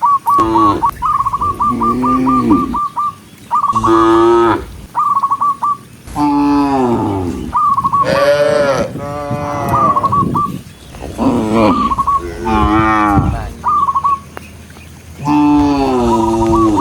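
Cattle mooing again and again, about nine long, drawn-out moos, some overlapping as if from several cows, with short gaps between them. A thin, high chirping trill comes in repeatedly between the moos.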